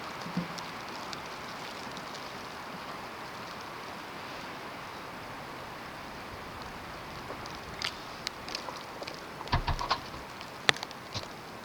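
Snowstorm wind blowing steadily. Scattered sharp ticks and a low thump come in over the last few seconds.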